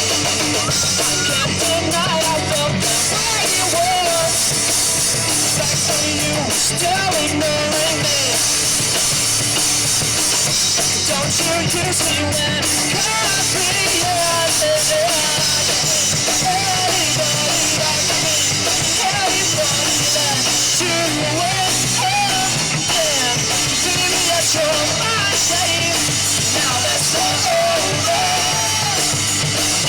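Live rock band playing loud and steady: drum kit, electric guitars and bass, with a wavering melodic line over the top.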